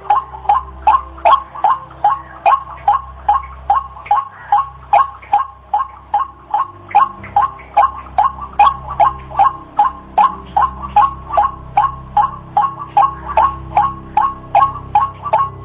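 White-breasted waterhen calling, the same short note repeated steadily about three times a second.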